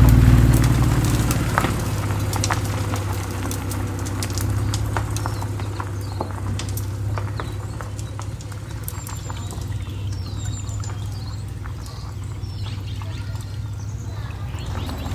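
Honda NSX's V6 engine running low and steady, loudest at the start and then settling, with scattered sharp ticks and crackles over it.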